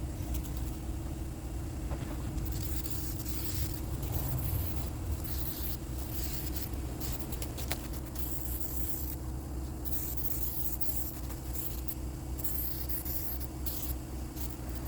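Aerosol spray adhesive hissing in repeated short bursts as it is sprayed onto a speaker box, over a steady low hum.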